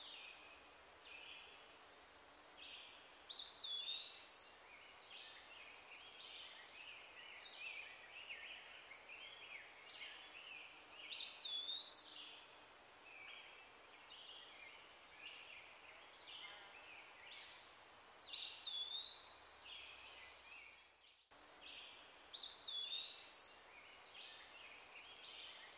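Bird calls over a faint outdoor hiss: a phrase of quick chirps and a swooping whistle comes back again and again in much the same form every several seconds, with a brief dropout near the end.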